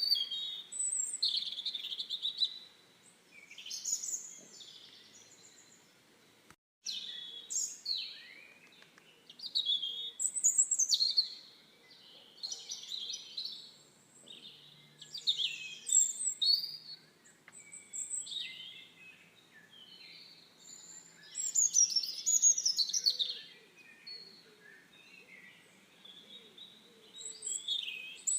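Songbirds singing and chirping: phrases of quick, high-pitched sweeping notes every second or two, with a brief dead-silent gap about a quarter of the way through.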